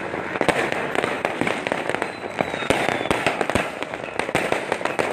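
Many firecrackers and fireworks going off at once: a dense, irregular run of bangs and pops over continuous crackling. A faint falling whistle comes through about two seconds in.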